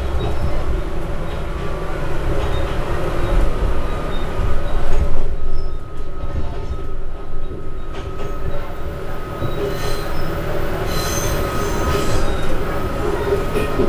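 Diesel railcar running on jointed single track, heard from inside: steady engine and wheel rumble, with a thin steady wheel squeal that joins about five seconds in as it rolls through curved track and points.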